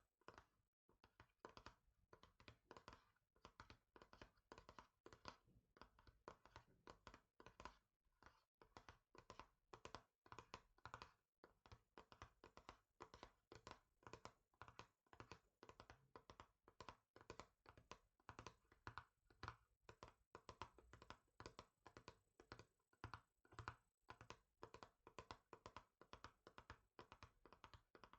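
Fingers tapping quickly and softly on a hard surface, dense irregular runs of several taps a second.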